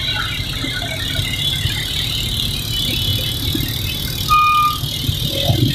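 Road traffic: vehicle engines rumbling under a steady rushing noise, with a short horn beep about four seconds in.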